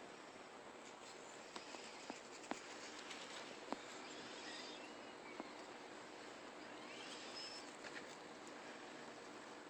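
Quiet outdoor background hiss with a few faint high chirps and scattered small clicks.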